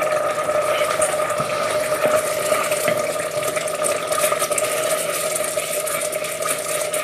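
A pan of risotto rice simmering and crackling, with many small pops over a steady hum.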